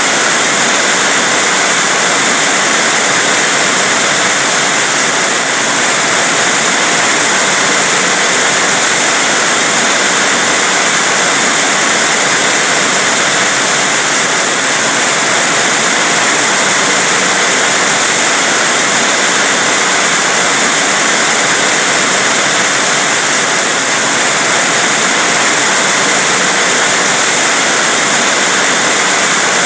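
Heavy rain falling as a steady, dense hiss, with no let-up and no single drops standing out.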